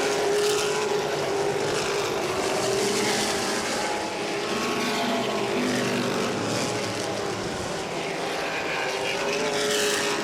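Modified race cars' engines running hard in a pack on a short oval, with cars sweeping past so that the engine pitch rises and falls.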